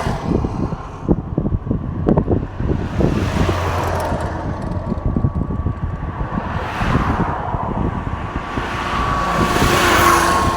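Road traffic: trucks passing one after another, each a swell of tyre and engine noise that rises and fades, three passes a few seconds apart, with wind buffeting the microphone.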